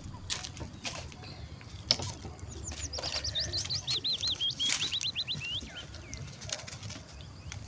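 A small songbird sings a quick run of repeated high whistled notes in the middle, among a few sharp clicks and knocks, the loudest about two seconds in, over a low rumble.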